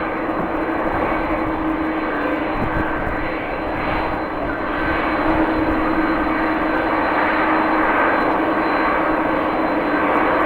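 Jet airliner engine noise: a steady, dense rush with a steady hum through it, getting a little louder about halfway through.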